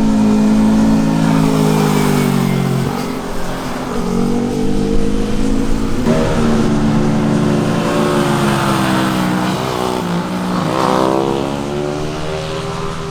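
Sport motorcycle exhausts, the engine pitch dropping and climbing as the riders shift gears and change speed, with abrupt changes about three and six seconds in. Near the end the engine rises quickly in pitch under hard acceleration.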